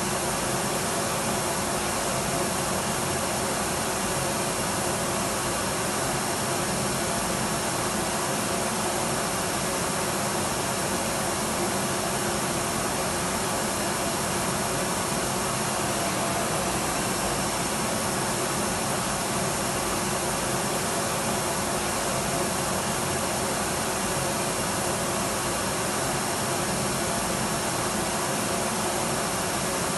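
Electric vacuum cleaner running steadily: an even rushing noise with a few faint steady tones in it, holding the same pitch and level throughout.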